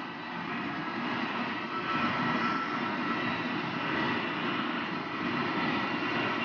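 High-speed electric train running at about 200 km/h and gathering speed: a steady rushing noise of wheels on rail and air, with faint steady whining tones over it.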